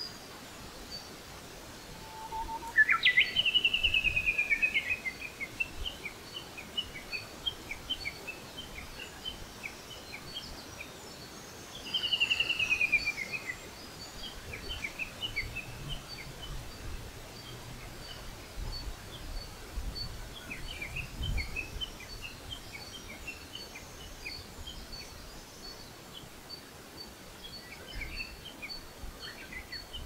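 Wild songbirds singing: a loud, rapid descending trill about three seconds in, opened by a short low note, and another about twelve seconds in, followed by scattered short chirps.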